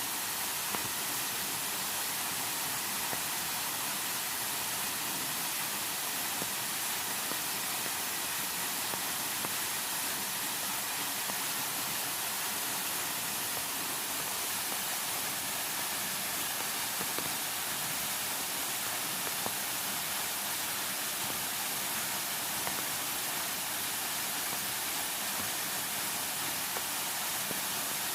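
Steady, unbroken rushing noise of water, with no changes or separate events.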